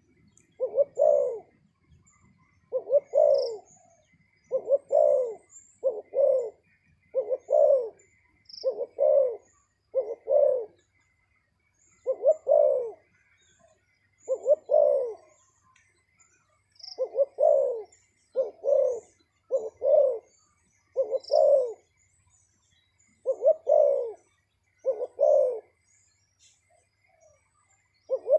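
Spotted dove cooing over and over, short coos coming about once a second in loose groups. Faint high chirps of small birds sound in between.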